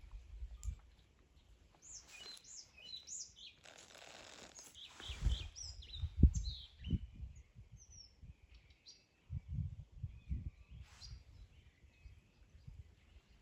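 Wild birds chirping and calling in quick, varied phrases, busiest in the first half. A short rush of noise about four seconds in, then bursts of low rumbling and thumping, the loudest about six seconds in.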